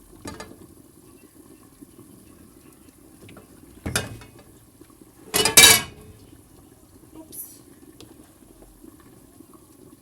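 Kitchen cookware clattering: a knock about four seconds in, then a louder ringing metal clang about a second and a half later, over a faint steady low background hum.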